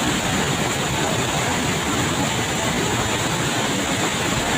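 Tegenungan Waterfall's falling water: a steady, unbroken rush of noise.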